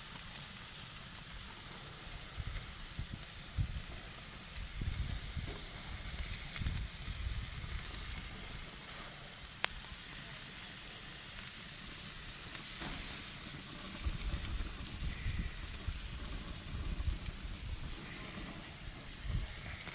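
Burgers and hot dogs sizzling steadily on the grates of a gas grill, with a low intermittent rumble and a single sharp click partway through.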